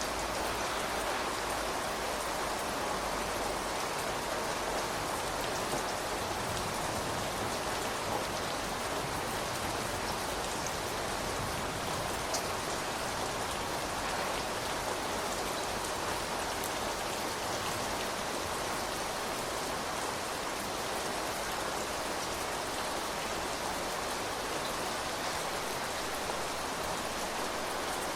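Steady rainfall, with drops pattering on surfaces and an occasional faint, sharper drip.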